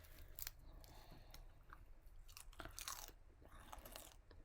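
Faint chewing of KFC Original Recipe fried chicken, with a few scattered sharp crackles.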